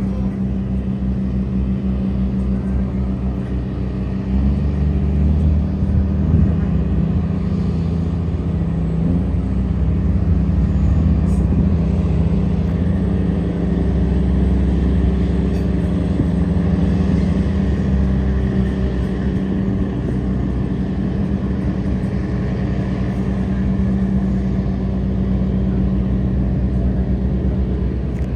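Tugboat's diesel engine running steadily under load while towing a cargo barge against the current, a low, even drone that gets louder about four seconds in.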